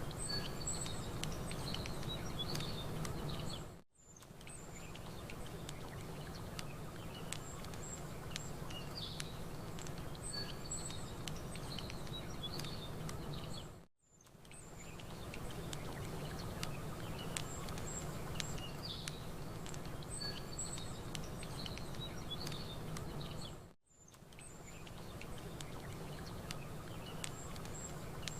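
Campfire crackling with small birds chirping over a low steady rumble. The sound fades out and back in briefly three times, about ten seconds apart: a short loop of ambience repeating.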